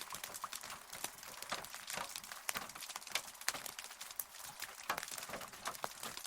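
Rain falling steadily: a light hiss studded with many close, sharp drop impacts ticking at irregular intervals.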